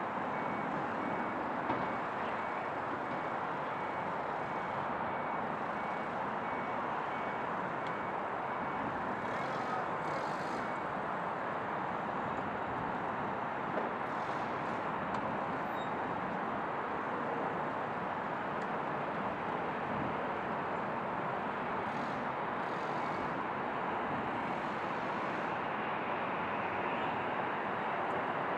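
Airbus A320's CFM56 jet engines running at taxi power: a steady rushing noise with a faint thin whine.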